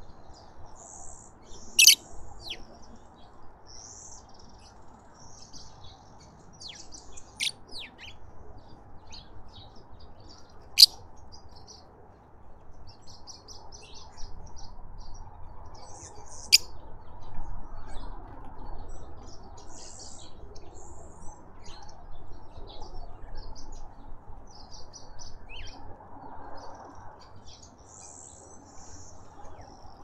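Small birds chirping and twittering on and off, with a few sharp, loud single calls, the loudest about two, eleven and sixteen seconds in, over a faint steady low background noise.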